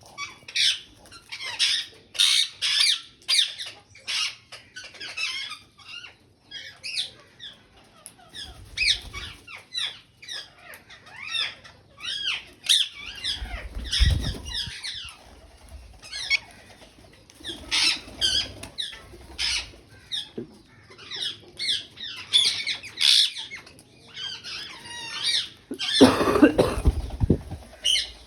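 Alexandrine and ring-necked parakeets calling: a steady run of short, sharp squawks and chatter. A louder, deeper burst of noise comes midway, and a longer, louder one near the end.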